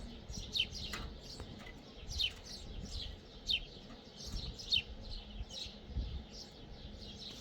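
Small bird chirping repeatedly: short, sharp chirps that sweep downward, about one or two a second, over a low background rumble.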